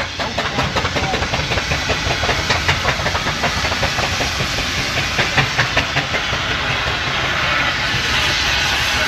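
Steam engine working, with a quick regular beat of exhaust or mechanism and steam hissing; near the end the beat gives way to a steadier hiss.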